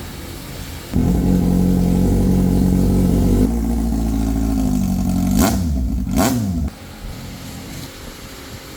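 Kawasaki Z800's inline-four engine, freshly refilled with oil, catches about a second in and idles steadily. It takes two quick throttle blips, then stops abruptly about two seconds before the end.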